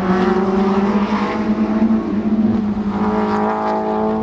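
Racing car engines running at high revs, a steady loud engine note with a slight drift in pitch; a second, higher engine note joins about three seconds in.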